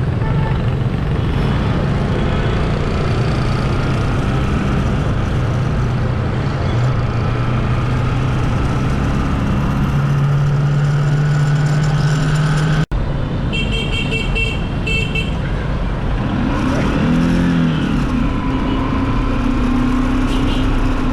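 Motorcycle engine running while riding through traffic, its pitch rising just before a sudden break about two-thirds of the way through. Vehicle horns honk just after the break.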